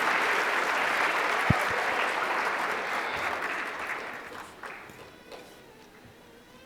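Audience applauding. The clapping tapers off and dies away over the last couple of seconds, with one short, low thump about a second and a half in.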